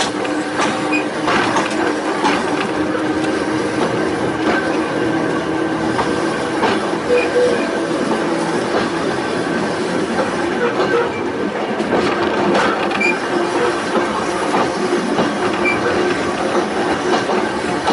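Volk's Electric Railway car running along its narrow-gauge track: a steady rolling rumble of wheels on rail with scattered sharp clicks throughout.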